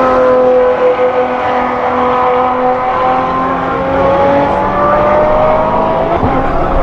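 Sports car engine running hard at high revs, its pitch dipping slightly and then climbing from about three seconds in.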